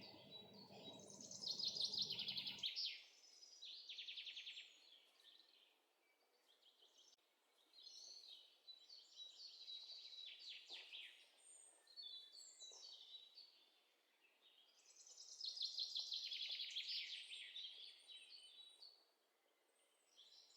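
Faint chirping and twittering of small birds: rapid high trills in several bouts, with short quiet gaps between them.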